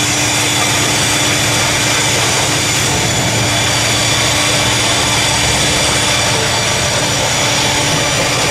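Diesel locomotive of a freight train running steadily, an even hum under a dense hiss with several steady high tones.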